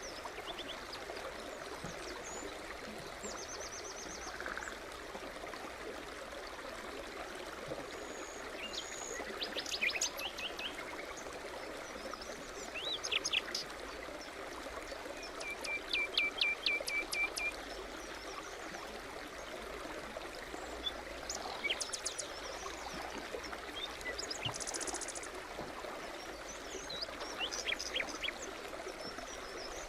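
Forest brook running steadily, with small songbirds chirping and calling over it. Several quick trills stand out, the loudest about halfway through.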